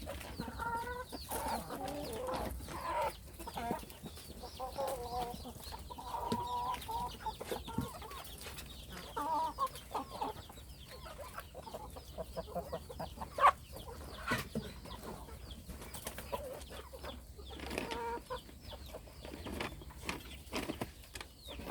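A flock of young hens clucking in short, repeated calls, with many scattered short sharp taps and one louder knock about halfway through.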